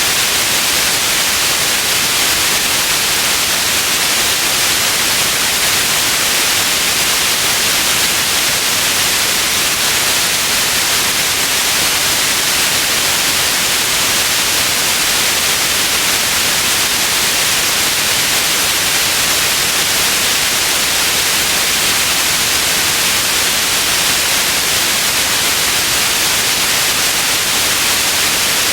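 Steady white noise: an even hiss that does not change, strongest in the high treble.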